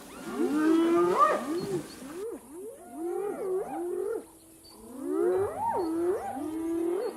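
Wild animals calling: runs of short yelping calls that slide up and down in pitch, in three bouts with brief lulls about two and four and a half seconds in.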